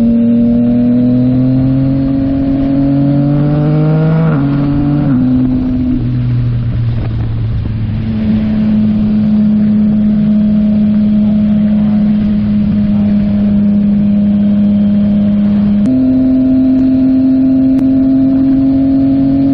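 Yamaha MT-09 SP's 890 cc inline-three engine through a Yoshimura AT2 full exhaust, pulling through the gears with a rising pitch and dropping at gear changes about four and six seconds in. It then holds a steady cruising note and steps up to a higher steady note near the end.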